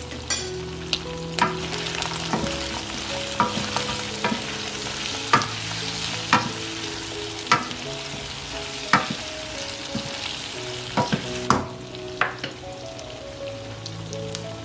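Chicken wings sizzling in hot oil in a wok while a spatula stirs them, knocking and scraping against the pan about once a second. The sizzle fades near the end.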